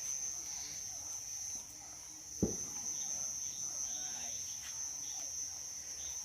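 Crickets chirring in one steady, unbroken high-pitched drone at night, with a single dull knock about two and a half seconds in.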